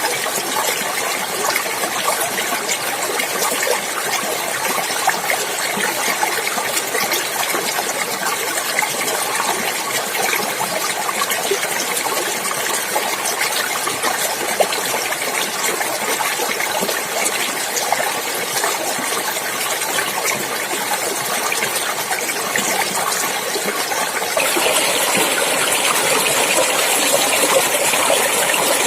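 Clear water running and splashing in a stream, a steady rushing babble. About 24 seconds in it becomes louder and brighter.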